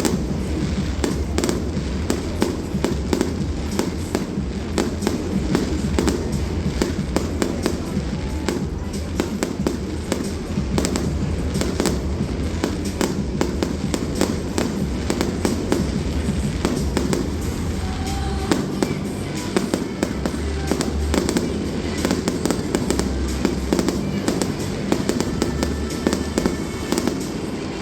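Aerial fireworks going off in a rapid, continuous string of bangs and crackles, with music playing underneath.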